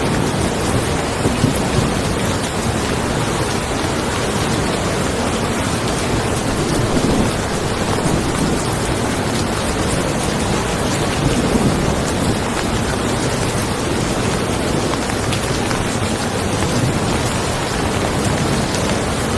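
Steady rain falling on a car, with thunder rumbling low and swelling a few times under the hiss of the rain.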